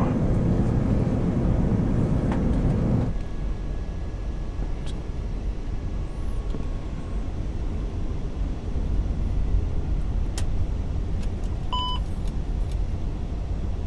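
Steady low rumble of airflow and air conditioning inside an Airbus A380 cockpit during the approach descent. A louder hiss in the first three seconds drops off abruptly, and a single short electronic beep sounds near the end.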